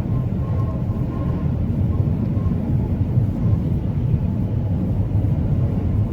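Steady low rumble of a truck on the move, engine and road noise without change.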